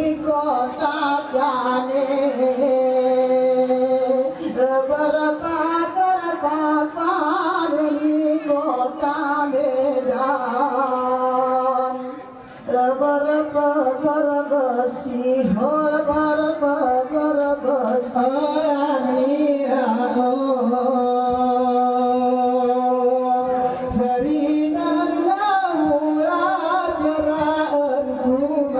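Gayo Saman song sung in a high register, one melodic line of long drawn-out notes that bend up and down. It breaks off briefly about twelve seconds in.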